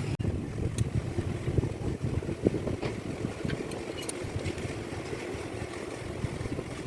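An engine running at idle with a fast low throb, with a few faint light clicks over it.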